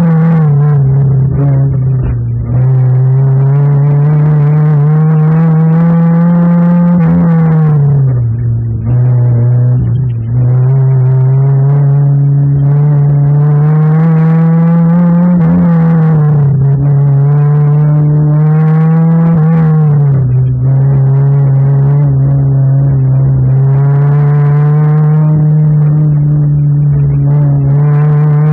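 1990 Ford Escort GT's four-cylinder engine, heard from inside the cabin under hard driving: the revs climb and fall again and again as the throttle is applied and lifted, with a few brief drops where the throttle is lifted off.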